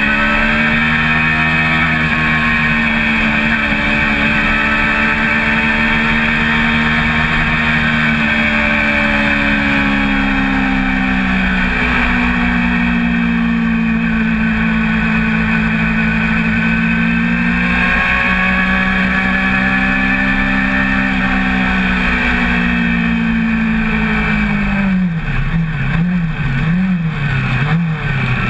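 1988 Honda CBR400RR's 399 cc inline-four racing engine running hard at high revs, heard from on board with wind rushing past. The engine note slides down and back up over the lap as the rider shifts and works the throttle, and near the end it wavers quickly up and down several times.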